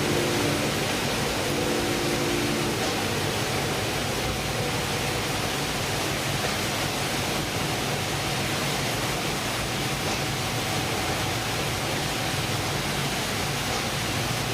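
Steady loud rushing noise on board a fishing vessel at sea, wind and water over a low hum of machinery, with a faint high tone running through it.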